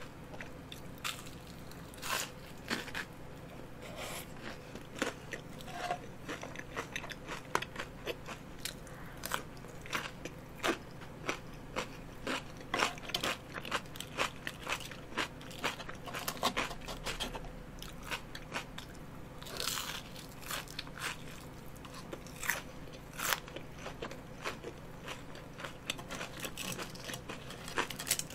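Close-miked biting and chewing of crunchy battered fried squid rings, with many irregular sharp crunches.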